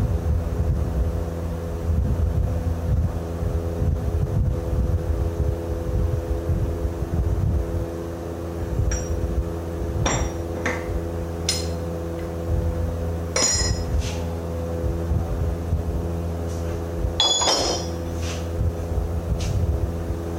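An engine running steadily, with a handful of sharp metal-on-metal strikes and clinks from hand tools on heavy truck steering parts. The strikes ring briefly and are spaced a second or more apart, mostly in the second half, the loudest near the end.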